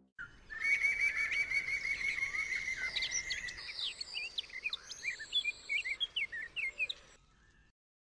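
Songbirds chirping: a fast, even trill for the first few seconds, then many short, quick chirps that overlap, stopping abruptly about a second before the end.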